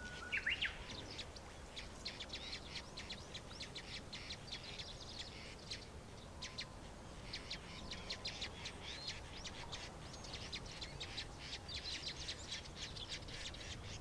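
Faint chirping of wild birds: a steady run of short, high chirps throughout, with one louder rising call about half a second in.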